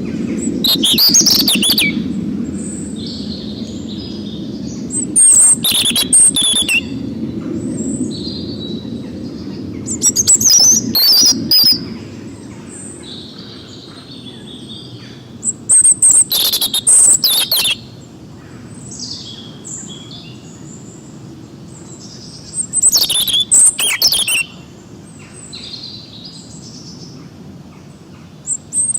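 Several songbirds singing and chirping, with a loud, rapid, chattering phrase every five to seven seconds over softer calls between them. A low rumble underneath is strongest at the start and fades.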